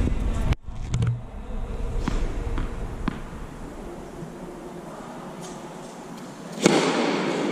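Tennis ball being struck by a racket and bouncing on the court: several sharp hits, a crisp one about three seconds in and a louder one near the end.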